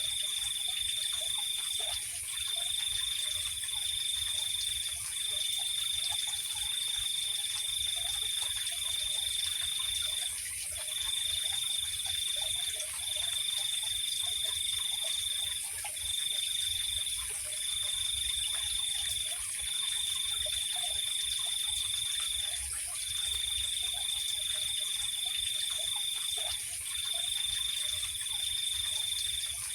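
Night chorus of crickets: a steady high-pitched trill runs in long stretches of one to five seconds with brief breaks, over a continuous higher insect hum.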